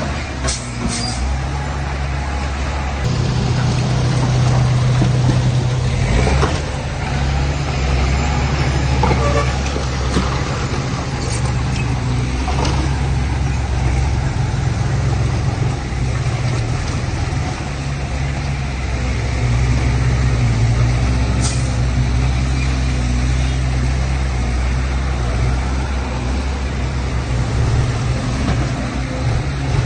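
A heavy truck's diesel engine running steadily under load, with a few brief sharp hisses of air.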